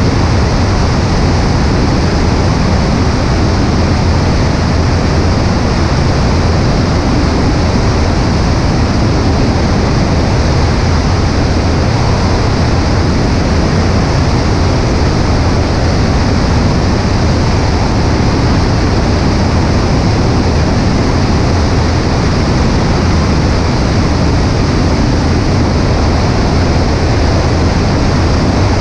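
Cessna 140A light aircraft in flight: steady engine and propeller drone under heavy rushing wind noise on a microphone mounted on the right wing, unchanging throughout.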